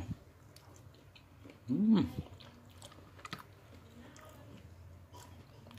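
A person chewing a mouthful of fried tofu with sambal, with small wet mouth clicks, and a short hummed "mm" that rises and falls in pitch about two seconds in.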